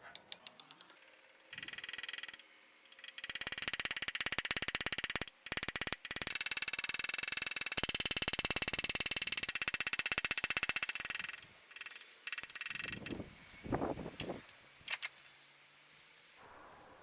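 A workshop power tool run in repeated start-stop bursts, with a fast, even clicking rattle while it runs.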